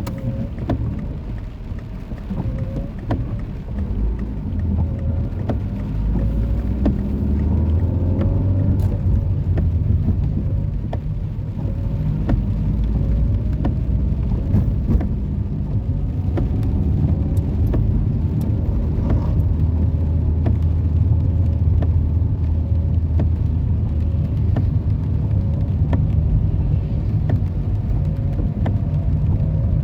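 Rainy street ambience: a steady low rumble of road traffic with many scattered raindrop ticks.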